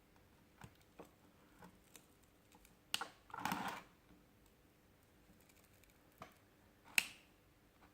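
Small clicks and taps of plastic pry tools working at the back cover of a Sony Xperia XA2 Ultra, with a louder click about three seconds in followed by a brief scrape, and another sharp click near the end.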